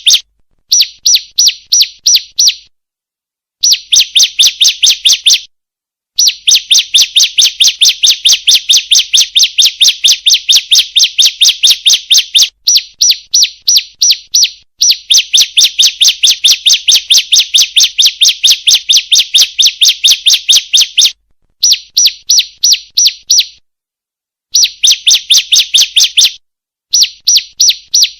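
Female ciblek (bar-winged prinia) calling: long runs of rapid, evenly spaced high chirps, about four or five a second, broken by short pauses. This is a lure call, played to get male ciblek to sing.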